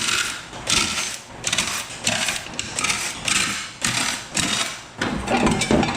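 A power tool run in a string of short bursts, about eight or nine, each around half a second long and coming roughly every 0.6 s, as fasteners are worked loose to take a metal plate off a machine cabinet.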